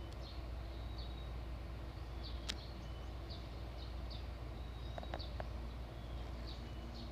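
Outdoor ambience with a small bird giving short, high chirps that dip quickly in pitch, repeated about every half second, over a steady low rumble. A sharp click sounds about two and a half seconds in.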